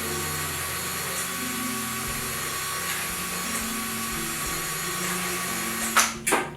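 Power tool running steadily while metal wing parts are deburred, then shutting off about six seconds in, followed by two sharp knocks.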